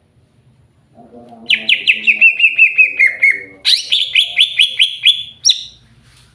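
Cucak hijau (green leafbird) singing: two fast runs of about ten clear repeated notes, each run sliding down in pitch, the first starting about a second and a half in and the second just after it ends, closed by one sharp higher note.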